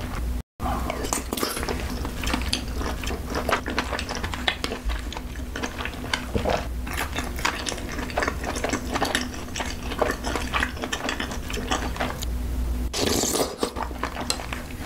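Close-miked eating sounds: rapid, wet chewing and smacking of cream-sauce noodles and bacon, with small clicks of chopsticks and a spoon against a bowl. The sound cuts out for an instant about half a second in.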